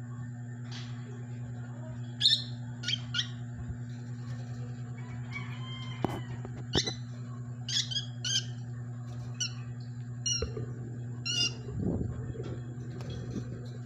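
Peach-faced lovebirds calling: about a dozen short, high-pitched squawking chirps, scattered and irregular, over a steady low hum.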